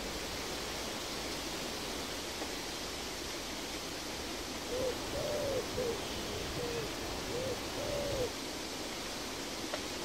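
Forest ambience: a steady hiss with a bird hooting six short times around the middle, two of the hoots a little longer.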